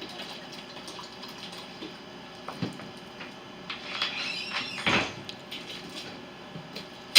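Liquid being poured into a container, with a few light knocks and handling sounds; the pouring is loudest around four to five seconds in.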